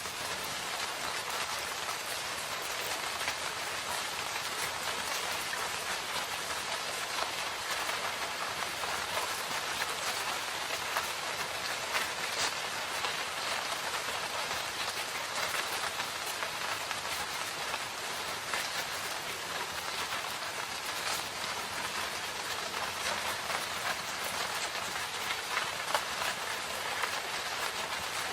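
Steady rain falling in a forest: a constant even hiss, with many sharper individual drop hits scattered through it.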